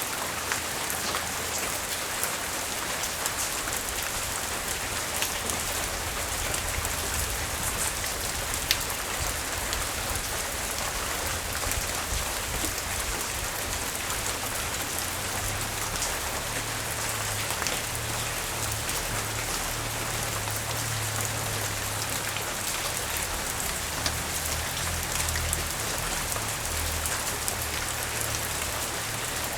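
Steady rain falling, an even hiss with scattered sharper drop ticks. A low rumble runs underneath, stronger in the second half.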